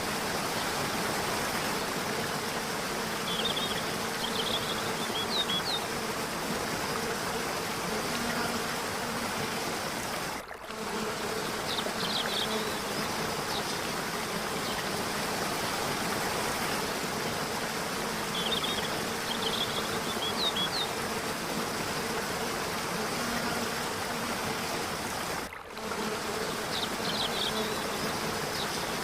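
Steady rush of falling water, with faint clusters of short high chirps every several seconds and two brief dips in level, about fifteen seconds apart, where the recording loops.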